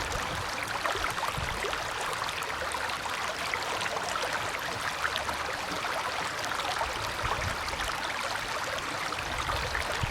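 Steady running water with small splashes.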